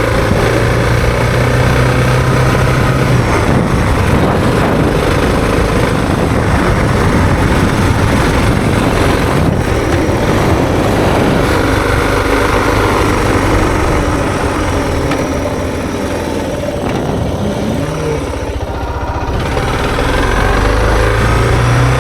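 Suzuki DR650 dual-sport motorcycle's single-cylinder engine running, steady for most of the time, easing off about two-thirds of the way through and building again near the end.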